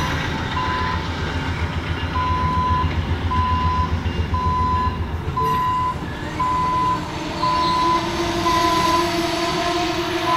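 Amtrak passenger train rolling past, its cars rumbling low for the first half, with an electronic beep about once a second throughout. A steady low tone comes in near the end.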